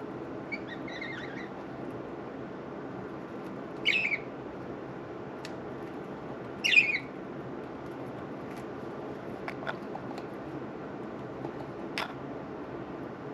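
Budgerigars giving short squawking chirps: a faint one early, then two louder ones about 4 and 7 seconds in, with a few light clicks or taps between. A steady background hiss runs underneath.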